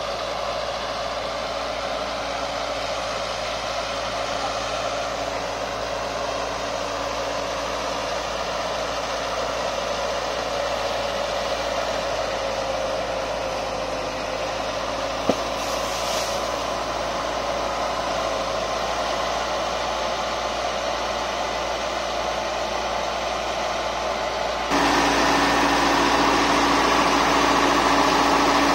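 Sonalika 60 hp tractor's diesel engine running steadily, with a brief click about 15 seconds in; near the end the sound suddenly gets louder.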